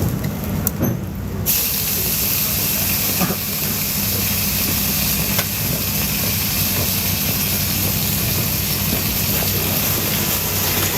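A loud, steady hiss from street-stall cooking starts abruptly about a second and a half in and holds steady over a low hum.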